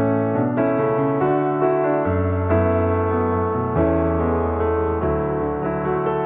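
Piano music: a melody of single notes over long held low bass notes.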